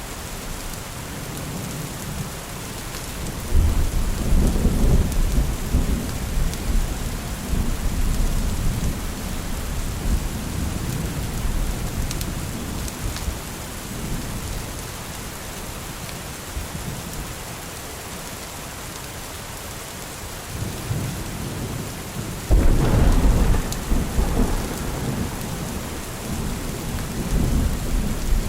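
Steady rain with thunder rolling in twice: a long low rumble starting a few seconds in that fades over several seconds, and a second, louder one about three quarters of the way through.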